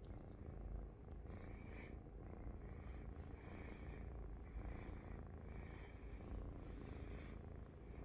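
A domestic cat purring close up, a steady low purr with a brighter rasp that comes back about once a second.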